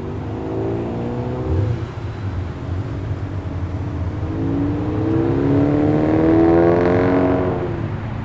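Passing cars' engines under acceleration. One revs up over the first couple of seconds and fades. A second engine builds from about halfway and is loudest near the end, its pitch rising and then dropping as it goes by.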